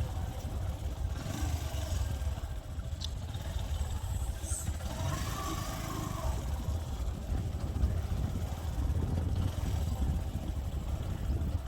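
Motorcycle engine running on the move, with a dense, uneven low rumble throughout.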